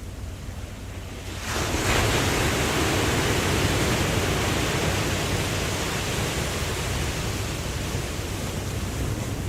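Ocean wave breaking: a low steady surf rumble, then about a second and a half in a loud rushing wash of water swells up and slowly eases off.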